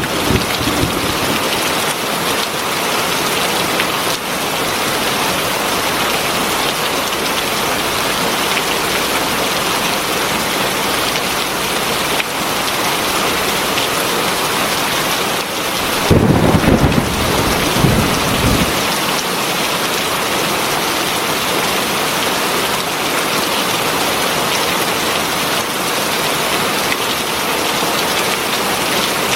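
Heavy rain falling in a steady, dense hiss, with a low rumble of thunder rising for about two seconds a little past the middle.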